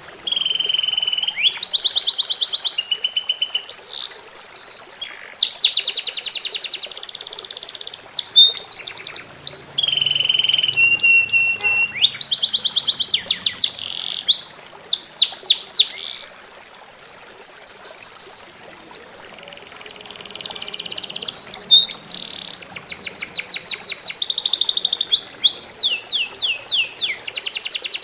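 A songbird singing loud, high-pitched song made of fast, rapidly repeated trills and chattering phrases, with a pause of a few seconds just past the middle.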